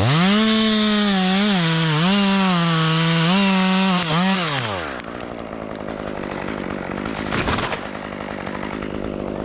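Chainsaw running at full throttle, its pitch sagging and recovering several times as it cuts. About four seconds in the throttle is released and the engine winds down, leaving a lower, rougher, even noise for the rest.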